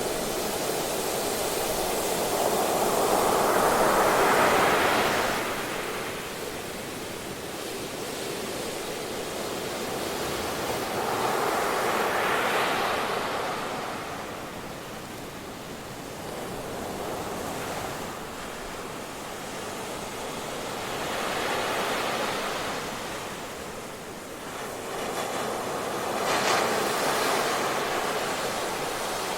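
Ocean surf on a beach: a constant wash of water with waves breaking and rushing in four times, each swell building and then fading away.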